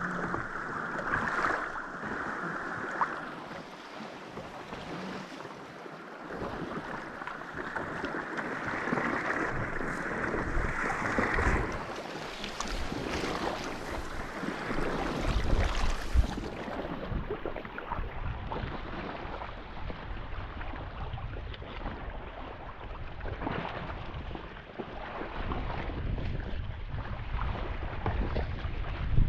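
Water sloshing and splashing around a kayak as it is paddled, with wind buffeting the microphone.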